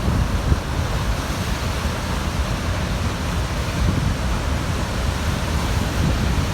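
Steady rush of Niagara Falls' falling water, with a low rumble of wind on the microphone.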